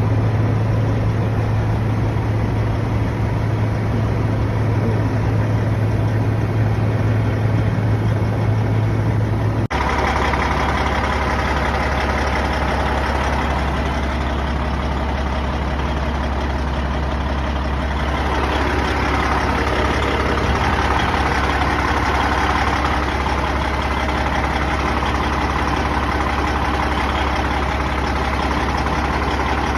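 Freightliner Classic XL's Detroit Diesel Series 60 12.7-litre engine running steadily. About ten seconds in the sound cuts abruptly and carries on at a lower, deeper pitch.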